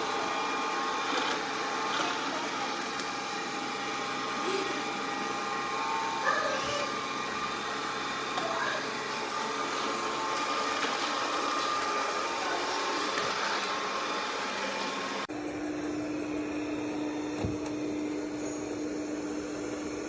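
Robot vacuum running with a steady motor whir. About fifteen seconds in the sound cuts abruptly to a duller steady hum.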